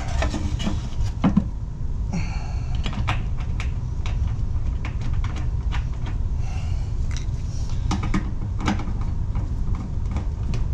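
Scattered light clicks and knocks of parts and tools being handled, with two short scraping or rustling noises, over a steady low rumble.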